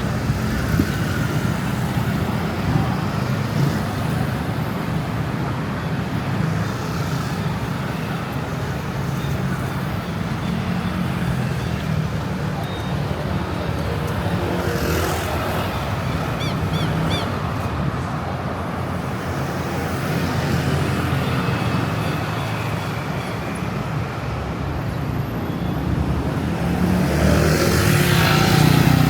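City street traffic: a steady rumble of cars and other vehicles going by, with one vehicle passing closer and louder near the end.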